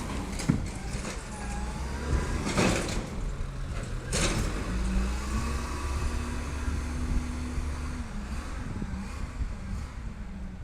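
Garbage truck's engine running, with several sharp bangs in the first few seconds. From about five seconds in, a steady hum steps up in pitch, holds for a few seconds, then drops back.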